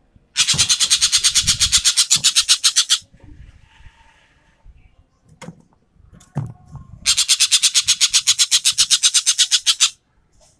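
Sumatran ekek keling bird giving its 'tembakan' call: a fast, dry, machine-gun-like rattle of about nine notes a second, in two bursts of roughly three seconds each, the second starting about seven seconds in.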